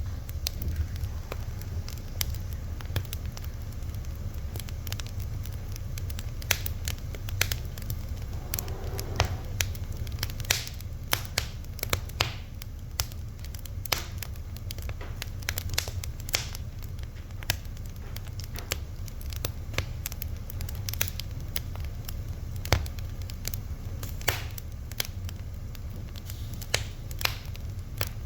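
Wood fire crackling and popping, with sharp snaps at irregular intervals over a steady low rumble of the burning.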